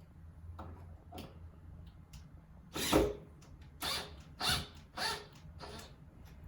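Wooden window parts being worked loose in the frame: a few short, sharp scrapes and knocks of wood on wood. The loudest comes about three seconds in, then three more follow about half a second apart.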